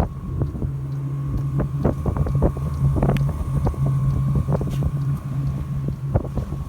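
Chinese 5 kW diesel air heater running as it starts up, with a steady low hum from its fan motor and a fainter steady higher whine. Wind buffets the microphone, with scattered light knocks.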